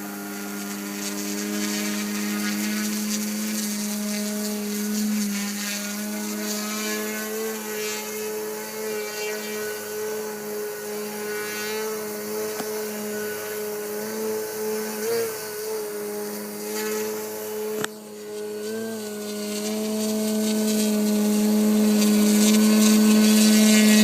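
Electric motor and propeller of a Seagull Edge 540 radio-controlled model plane, converted to electric power, running steadily in flight with a slightly wavering pitch. It drops away sharply about 18 seconds in, then grows louder toward the end.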